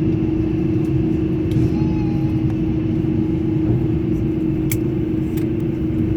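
Airliner at the airport running with a steady loud drone: one constant low hum over a rumble, with a couple of faint clicks about three-quarters of the way through.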